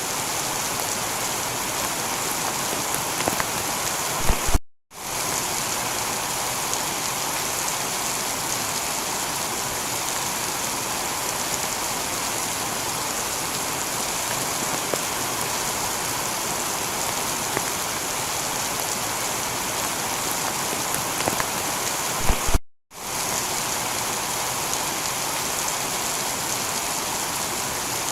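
Heavy rain falling steadily on a tiled roof, an even hiss with scattered individual drop hits. The sound cuts out completely for a split second twice, about 18 seconds apart.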